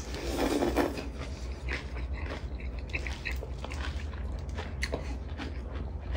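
Two people chewing food with their mouths full close to the microphone: wet chewing and mouth noises, with a louder burst as a bite is taken at the start, over a low steady hum.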